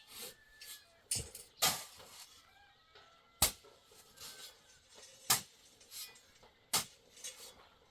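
Sharp clinks and knocks, one to two seconds apart and irregular, like a hard tool striking; faint bird chirps between them.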